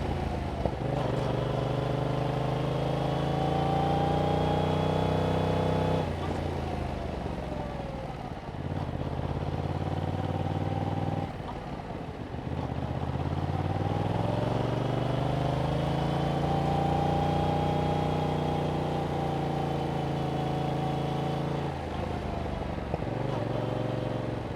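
2021 Yamaha MT-07's 689 cc parallel-twin engine through its stock exhaust while riding: the revs climb for several seconds, drop off suddenly and wind down, then climb again, hold steady for a while and ease off near the end.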